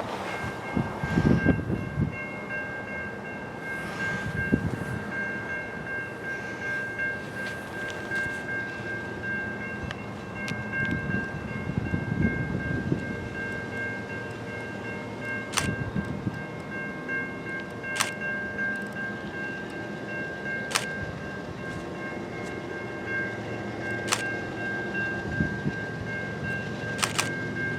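Freight train rolling past, with a steady high-pitched whine held at one pitch throughout and a rumble underneath. Sharp clicks of wheels over rail joints come every few seconds in the second half.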